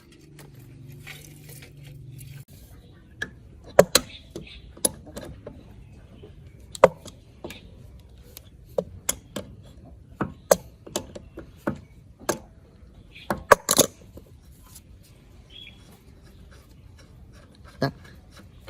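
Irregular sharp clinks and knocks of hand tools and metal parts being handled, with a low steady hum in the first couple of seconds.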